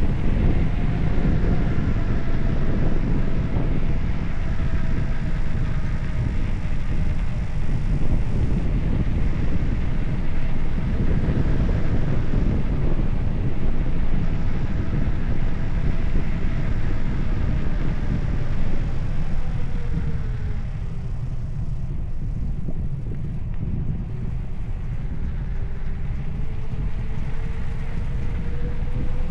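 Wind buffeting the microphone with a steady low rumble, as on a moving bicycle. A faint whine runs through it, dropping in pitch about two-thirds of the way in and then rising again.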